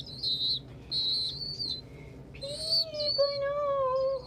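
Young pigeons (squeakers) begging with high, thin whistle-like peeps, several in a row. From about halfway a lower, drawn-out call with a falling pitch takes over.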